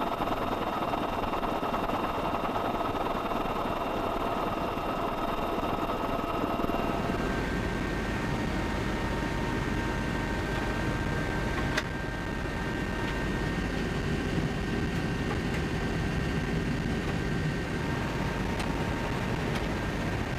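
A machine running steadily with a noisy rush and several held whining tones. The set of tones shifts about seven seconds in, and there is a single sharp click near the middle.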